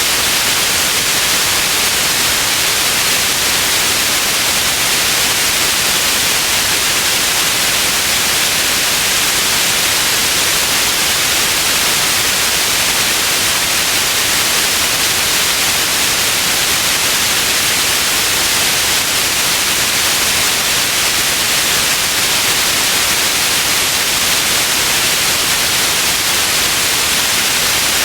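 Steady, unbroken white noise: an even hiss strongest in the upper range, with no change in level.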